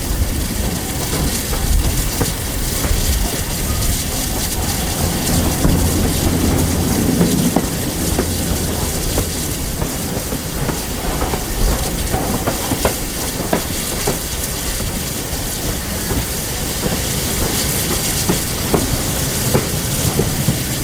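Steam-hauled train running along the track: a steady rumble with the wheels clicking over the rail joints, and a light hiss.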